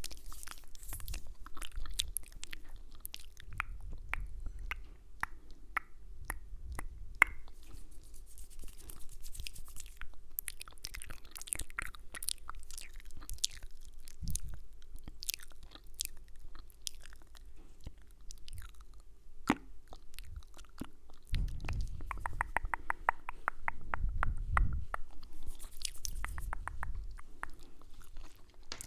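Close-miked ASMR mouth sounds: wet clicks, smacks and kissing sounds. Partway through they turn into a fast run of small clicks for a few seconds, with low rumbles under them.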